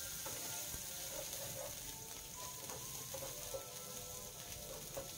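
Chopped green chilli, ginger, garlic and onion frying in hot oil in a pan, with a steady sizzle.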